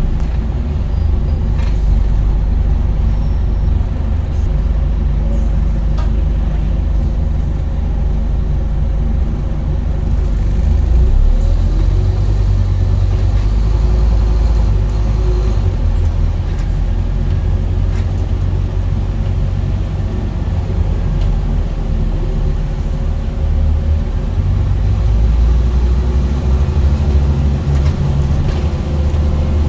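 Scania N230UD Enviro 400 double-decker bus's five-cylinder diesel engine running on the move, a steady low rumble that shifts in pitch a couple of times as the engine speed changes, with a few light rattles and clicks.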